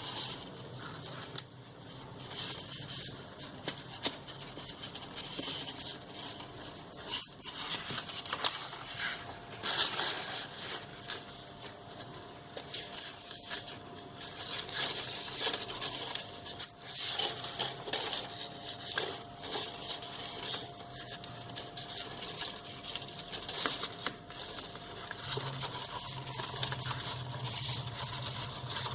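Paper and thin card handled by hand as strips are glued on: rustling, rubbing and scraping with scattered small taps and crackles.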